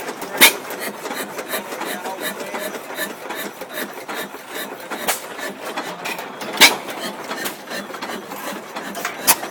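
Antique hit-and-miss stationary gasoline engine running: a fast, steady clatter of valve gear and governor, broken by a sharp exhaust bang only every few seconds, four in all and unevenly spaced, as the engine fires only when it needs to.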